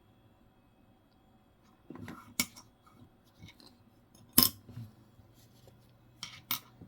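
Dimes clicking and clinking as they are handled and set down: a few separate sharp clicks, the loudest about halfway through and two close together near the end.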